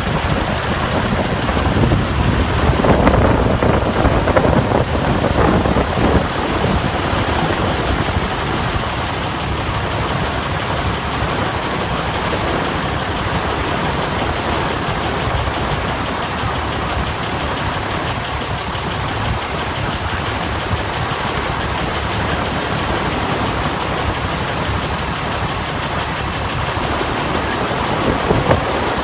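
An engine idling steadily, a little louder for a few seconds near the start.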